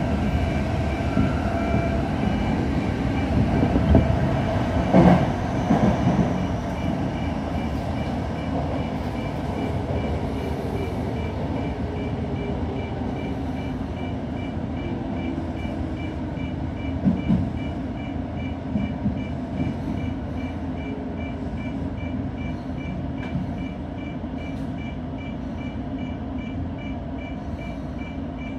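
Electric commuter train braking into an underground station: steady wheel-and-track rumble, with a few loud clacks over rail joints about four to six seconds in. The motor whine falls in pitch as the train slows, and the rumble eases off as it comes to a stop. A repeated high pip sounds through the second half.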